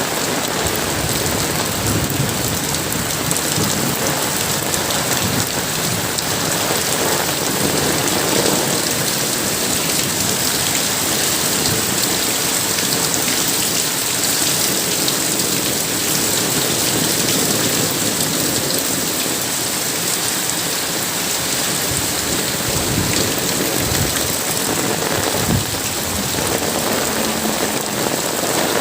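Heavy rain pouring steadily, a dense even hiss, with a few low rumbles swelling and fading in the middle and later on.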